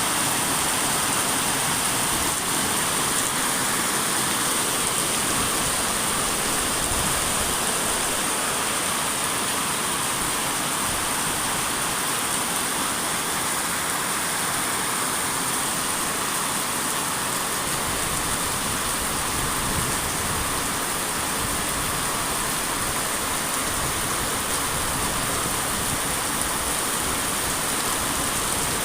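Steady heavy rain falling, an even wash of noise with a steady high hiss.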